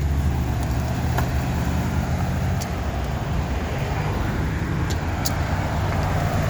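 A motor vehicle's engine running with a steady low hum, over street traffic noise.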